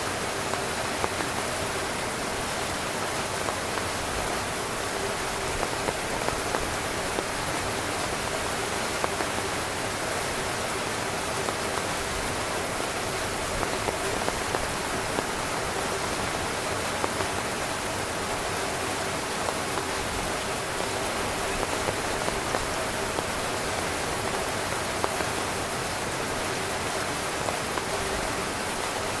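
Heavy rain falling steadily on a camping tent, a dense even patter with scattered louder drop hits.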